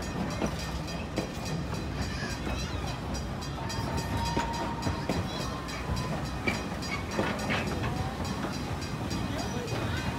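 Train rumbling and rattling, with many small irregular clanks and a thin steady squeal lasting about a second and a half, a little before the middle.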